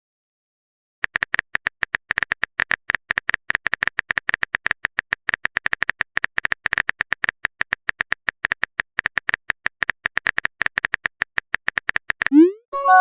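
Typing or text-blip sound effect: short high-pitched clicks in an uneven run, several a second, for about eleven seconds. A quick rising swoop and a chime follow near the end.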